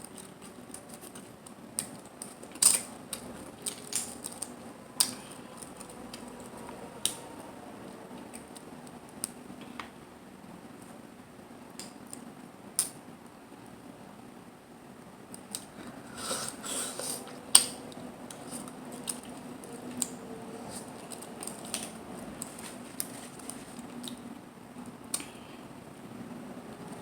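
Eating mussels and clams: irregular sharp clicks and taps of shells, with a dense cluster about sixteen seconds in, over a steady faint background hum.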